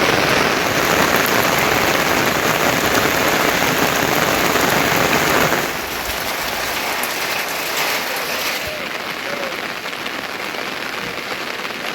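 Heavy rain falling steadily as a dense hiss. About halfway through it drops suddenly to quieter, lighter-sounding rain.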